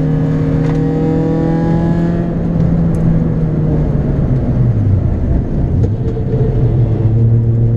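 Citroën Saxo VTS's 1.6-litre four-cylinder engine under load on track, heard from inside the cabin. It holds a steady high note at first, drops in pitch around the middle as the car goes into a corner, then climbs again near the end as it accelerates out.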